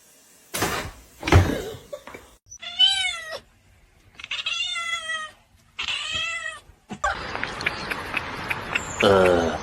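Domestic cat meowing: three separate drawn-out meows about a second apart, after a couple of sudden noisy sounds. A noisy stretch with small clicks follows, and a last falling meow comes at the end.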